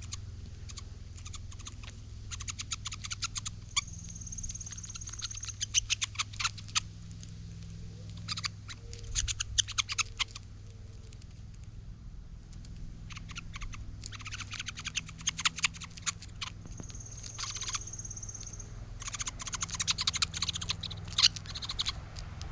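Hairy woodpeckers at a feeding hand: repeated clusters of rapid, sharp, high clicks. Twice a thin, high-pitched note is held for about a second and a half.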